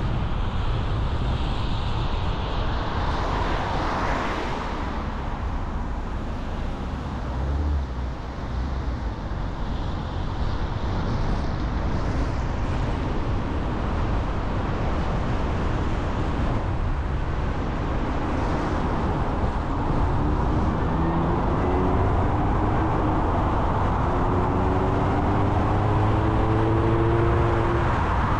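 A car driving along a road: steady road and tyre noise, with a tone that climbs slowly in the last third as the vehicle speeds up.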